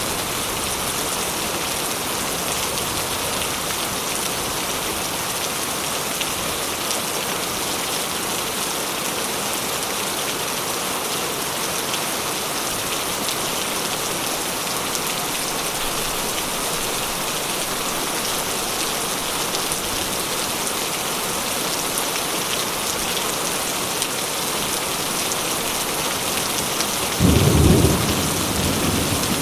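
Steady rain falling. A short, deep clap of thunder breaks in near the end and rumbles away over a second or two.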